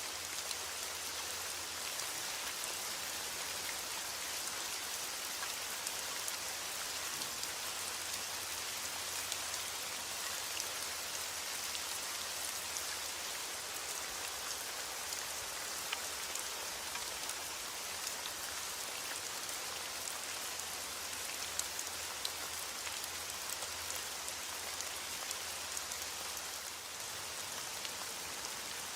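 Steady rain falling, an even hiss with many small individual drop hits scattered through it and no thunder.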